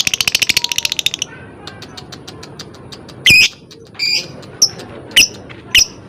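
Lovebirds calling: a fast, even ticking chatter that stops about a second in, then two loud shrill squawks and a string of short, sharp chirps.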